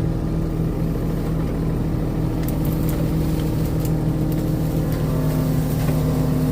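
Mini excavator engine running steadily under hydraulic work, a higher tone coming in about five seconds in. A few faint clicks sound in the middle.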